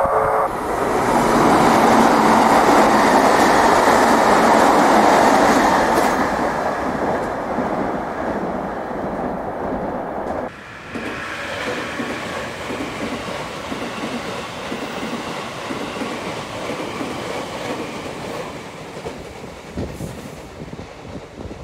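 Electric limited express train running past at speed, a loud rushing of wheels on rail for several seconds. After a break about ten seconds in, a train is heard running on the line more quietly, with rail clatter.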